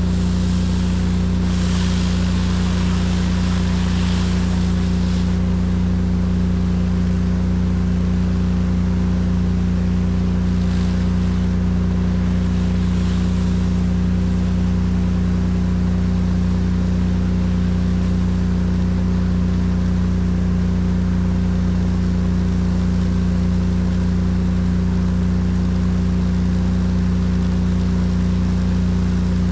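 Pressure washer rig's engine running at a steady speed under load, with the hiss of the water spray over it for the first five seconds or so.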